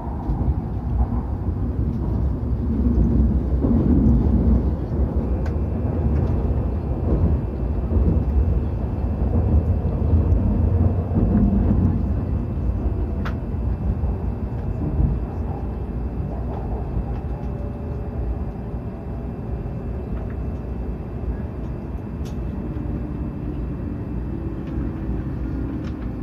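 Hokuriku Shinkansen train running, a steady low rumble with faint tones sliding down in pitch as it slows for its station stop.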